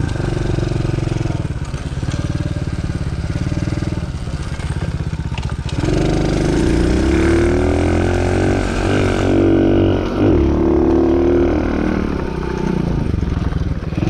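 110cc pit bike engine running as the bike is ridden, its note rising and falling with the throttle: it drops and then climbs about six seconds in, and eases off and picks up again around ten seconds.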